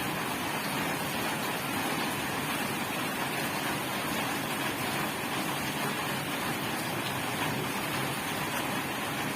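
Steady rain falling, an even wash of noise that doesn't change in strength.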